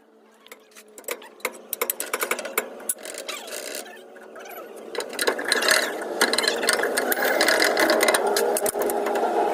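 Mechanical clicking and rattling from tool work on a leaf spring: a quickening run of sharp clicks and taps, joined about halfway by a louder, steady mechanical running.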